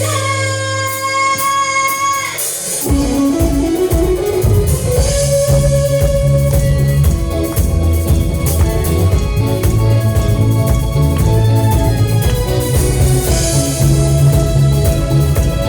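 A band playing: a few held notes, then about three seconds in the full band comes in with bass, drums and guitar.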